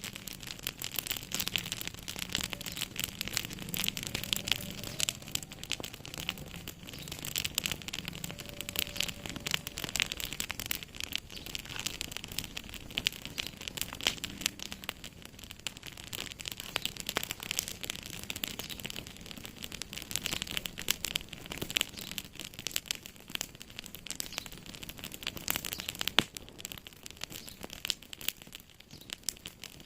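Wood fire crackling in a fireplace: a dense, irregular stream of small sharp pops over a soft hiss, with one louder pop near the end.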